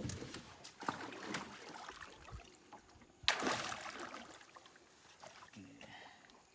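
Water splashing and sloshing at the side of a boat, with one louder splash a little over three seconds in that dies away over about a second.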